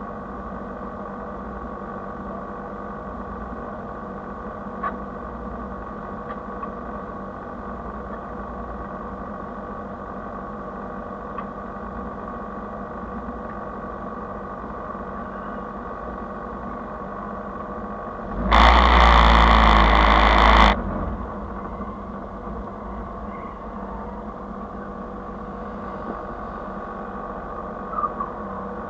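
Car engine idling steadily while the car sits still, with a loud rush of noise lasting about two seconds around two-thirds of the way through.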